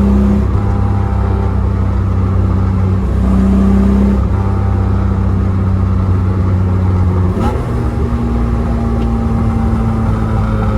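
Datsun Z's modified L28 straight-six on twin SU carburettors, breathing through a Z-Story Race/Sport header and Thrush 17715 muffler, running under steady load with a deep, even exhaust note, heard from inside the car. Something in the boot vibrates along with it. About seven and a half seconds in the note breaks briefly and settles a little higher.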